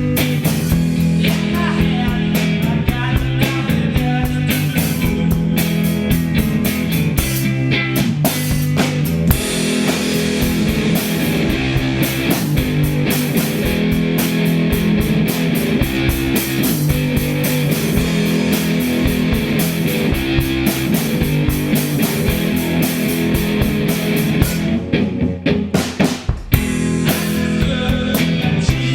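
Rock music played on guitar and drum kit with no singing. The drums and cymbals drop out briefly about 25 seconds in, then come back.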